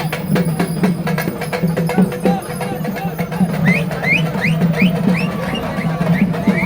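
Fast, dense drumming with a pulsing deep drum beat under many quick sharp strokes, with voices in the crowd. Partway through, about six short rising whistle-like chirps come in quick succession.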